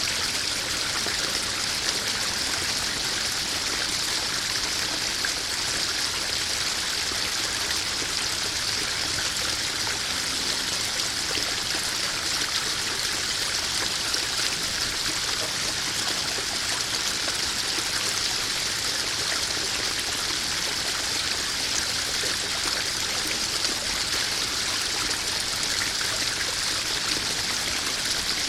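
Small garden koi-pond waterfall: water running and splashing steadily into the pond.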